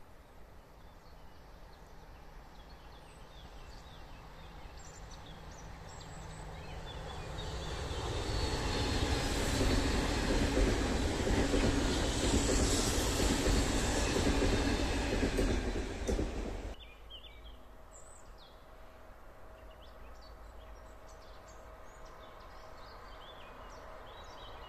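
Swiss SBB electric passenger train passing at speed on the line. Its noise grows over several seconds, stays loud for about eight seconds, then cuts off suddenly.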